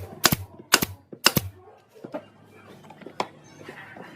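Sharp knocks on wood: four strikes in about a second and a half, then a single knock about three seconds in.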